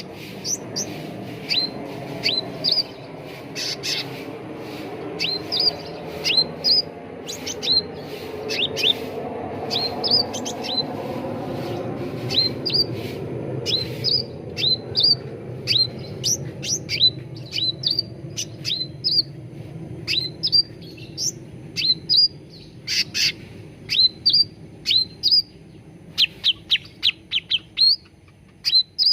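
Cucak ranting songbird calling: rapid series of short, sharply upswept chirps in quick clusters, over a steady low background hum.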